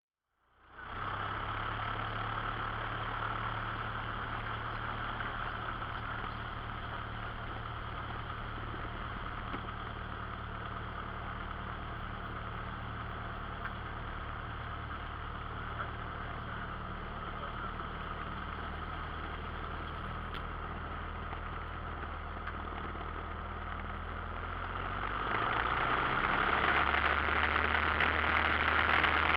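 Cessna 172 Skyhawk's four-cylinder piston engine and propeller running steadily at low power, then growing louder and changing pitch about 25 seconds in as power comes up for takeoff.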